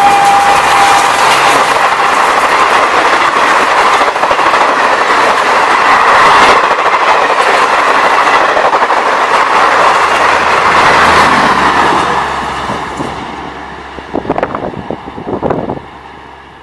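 Coaches of a fast Indian Railways express train rushing past with wheel clatter, a steady loud rush that fades away after about twelve seconds. It opens with the tail of the locomotive's horn dropping in pitch as it passes, and a few sharp knocks come near the end.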